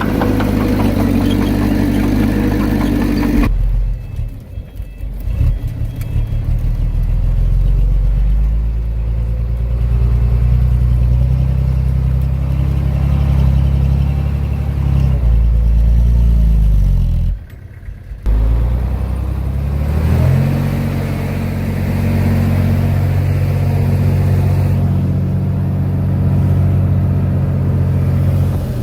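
Diesel engine of heavy earthmoving machinery running and working under load, its pitch shifting up and down. The sound changes abruptly about four seconds in, drops out briefly just after seventeen seconds, and shifts again around twenty seconds.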